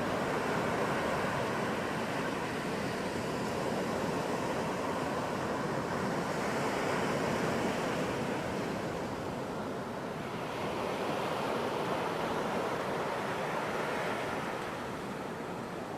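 Ocean surf: a continuous wash of breaking waves that swells and eases slowly, with no single sharp crash.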